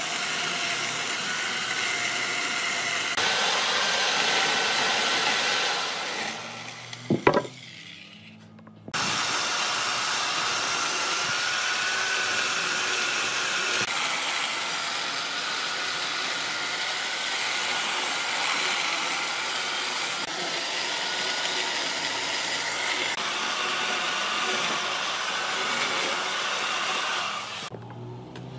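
A power tool cutting wood, running steadily with a wavering whine. It dies down about six seconds in, with a sharp knock near seven seconds, then starts again abruptly about two seconds later and runs until it drops off near the end.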